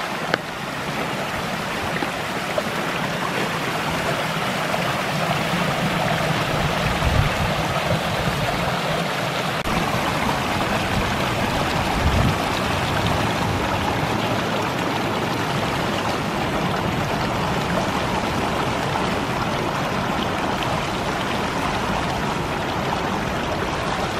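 Creek running full after heavy rain, a steady rushing and gurgling of water, with a few low thumps near the start and about 7 and 12 seconds in.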